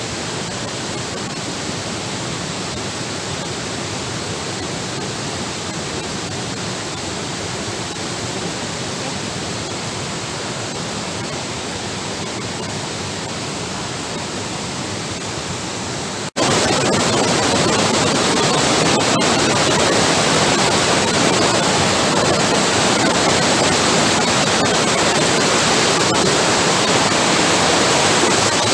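Steady rush of falling water from a waterfall. About sixteen seconds in it cuts out for an instant and comes back much louder and brighter.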